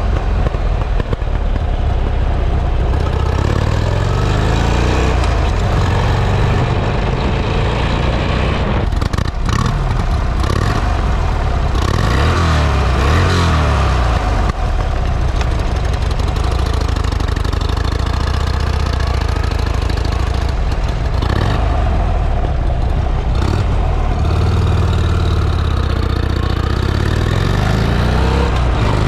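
Buell XB12R's V-twin engine through its exhaust, loud and continuous, with the engine speed rising and dropping back several times as it is revved.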